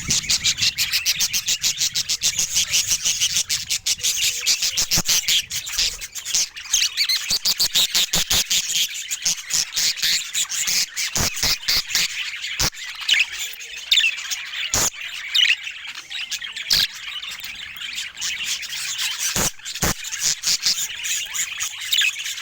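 Budgerigar chatter: a rapid, unbroken stream of high chirps, clicks and warbles, with a few sharper squawks in the second half.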